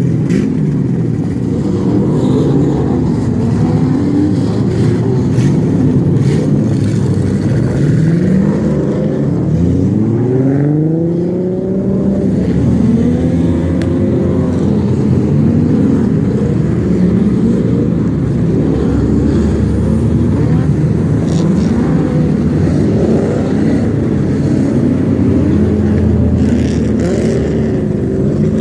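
Drift car's engine running hard, revving up and down over and over as the car is drifted on a wet track, with rising sweeps in pitch about ten to twelve seconds in.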